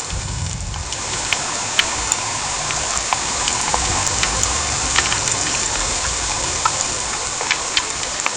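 Heavy rain pouring steadily, with scattered sharp taps of drops striking a hard surface and a low rumble underneath.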